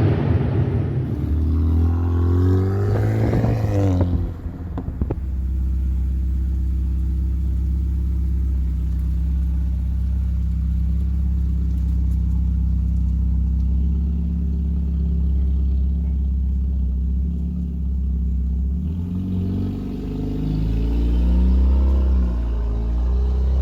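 Straight-piped, tuned 2014 Hyundai Genesis Coupe 2.0T's turbocharged four-cylinder engine revving for the first few seconds, settling to a steady idle, then revving again near the end.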